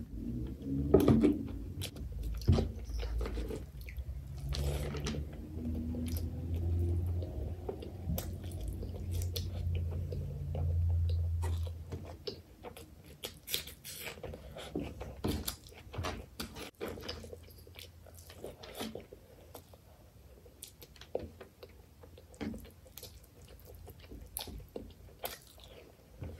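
Thick curry gravy poured from a bowl onto rice and worked in by hand, a wet squishing and rumbling, for about the first twelve seconds. After that, close-miked chewing of chicken liver curry and rice, with many small wet mouth clicks.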